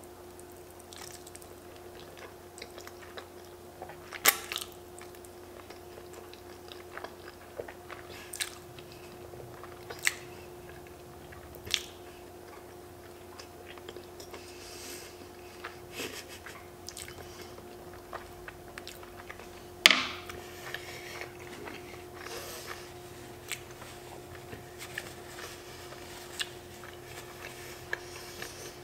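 A person chewing a mouthful of creamy fettuccine alfredo close to the microphone, with wet mouth sounds and a few sharp clicks, the loudest about twenty seconds in. A faint steady hum runs underneath.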